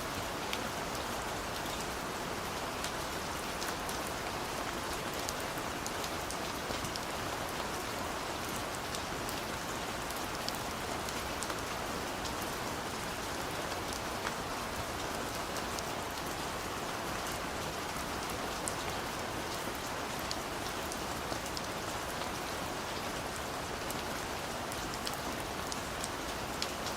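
Steady rain falling, an even hiss with scattered sharper patter of individual drops striking a surface.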